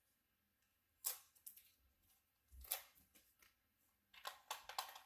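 Packaging and plastic vacuum attachments being handled: a few sharp clicks and crinkles, one about a second in, one near the middle, and a quick cluster near the end.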